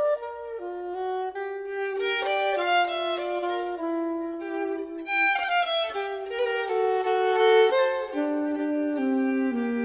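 Background music played on violin, with two or more bowed string parts moving between held notes.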